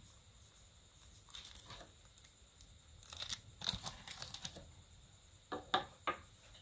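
A Zippo lighter being handled: scattered light crinkling and clicking, with a few sharper clicks near the end.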